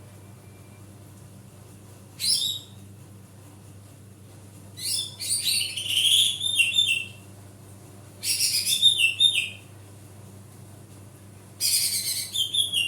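Cucak ijo (green leafbird) singing its loud basic song in four bursts of rapid, high, chattering notes, the second burst the longest, over a steady low electrical hum. This is the kind of song used as a lure to set a silent cucak ijo singing.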